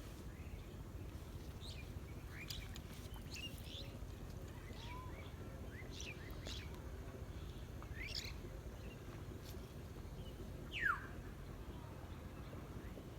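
Small birds chirping: scattered short, mostly falling calls, the loudest near the end, over a steady low background rumble.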